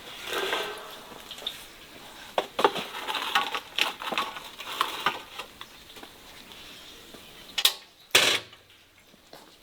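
Dishes and utensils clattering: a run of scattered clinks and knocks, with two louder knocks near the end.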